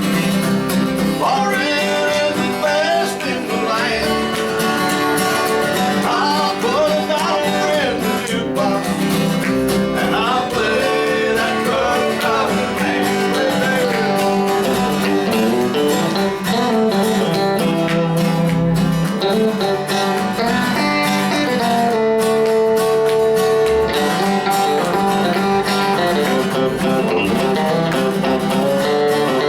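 Live country band music in the Bakersfield style, with guitar prominent and some singing, playing steadily throughout.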